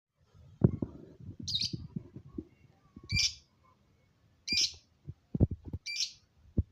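Lovebird giving four short, shrill chirps about a second and a half apart, with soft low knocks in between.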